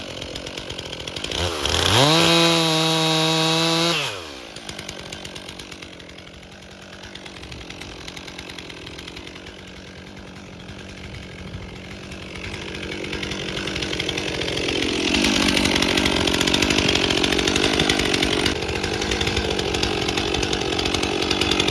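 Stihl MS 362 C two-stroke chainsaw idling, revved to full throttle for about two seconds near the start, then dropping back to idle. From about the middle it throttles up again and stays loud under load, cutting into a log.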